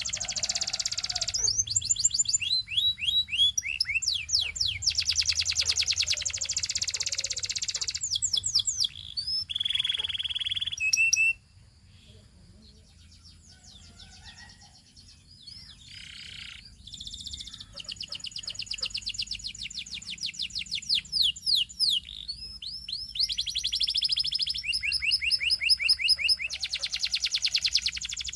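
Canary singing long, fast trills of rapidly repeated high notes. The song breaks off into a quieter pause about the middle, then resumes with more trills.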